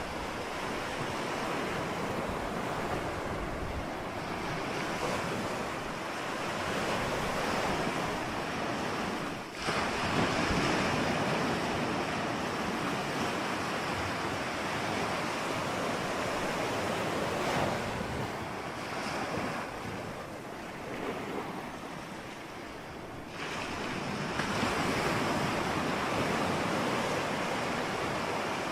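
Ocean surf: waves breaking and washing in a continuous rush that swells and ebbs. The loudest surge comes about ten seconds in, and another wave builds about three-quarters of the way through.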